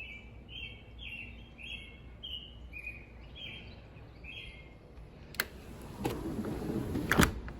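A bird calling outdoors: a series of about eight short chirps, roughly two a second, stopping after about four seconds. Then a sharp click, a stretch of rustling, and a louder knock near the end.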